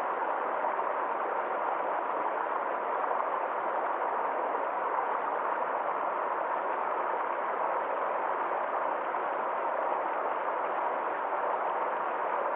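Small forest stream flowing over rocks in a steady, unbroken rush of water.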